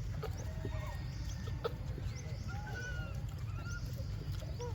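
Many short, high chirping and squeaking animal calls, some bending up or down in pitch, over a steady low rumble, with a couple of sharp clicks.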